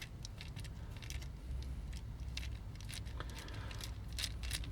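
Small screwdriver backing a screw out of a vintage plastic toy: scattered faint clicks and scrapes of metal on screw and plastic, over a steady low hum.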